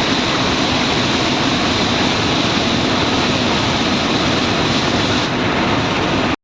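Steady, loud helicopter noise in flight, the turbine and rotor blending into an even roar, cutting off suddenly at the end.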